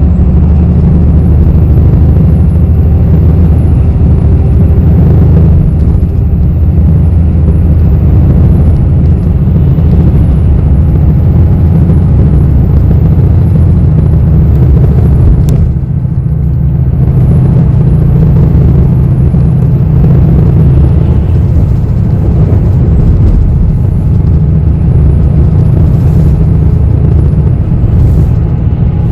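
Steady low rumble of a moving bus heard from inside the cabin, engine and road noise with no distinct events, and a faint high wavering whine above it.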